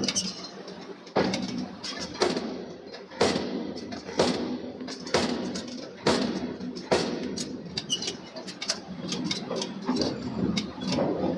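Forging hammer striking a steel billet, about one heavy blow a second, each blow ringing briefly, with lighter knocks in between.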